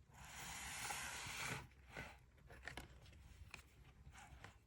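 A picture-book page being turned: a papery swish lasting about a second and a half, then a few faint soft clicks.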